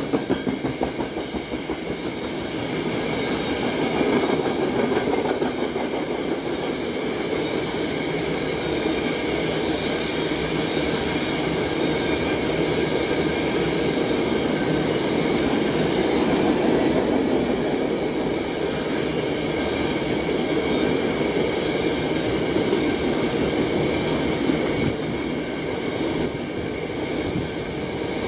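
Freight train of tank cars rolling past at close range: a steady rumble of steel wheels on the rails that holds even throughout.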